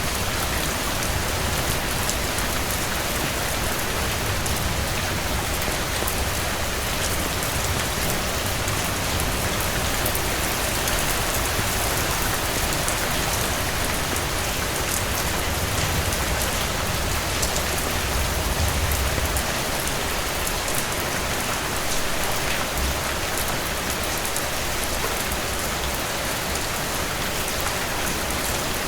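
Heavy rain falling steadily, a dense even hiss with a low rumble beneath and scattered sharp drop ticks.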